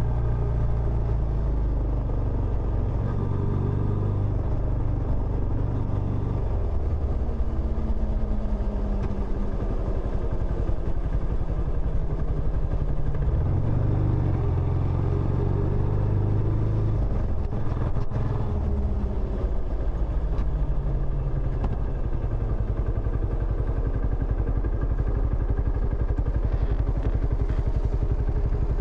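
Benelli Imperiale 400's single-cylinder engine running through its stock exhaust, the engine note rising and falling several times. A brief click is heard about two-thirds of the way through.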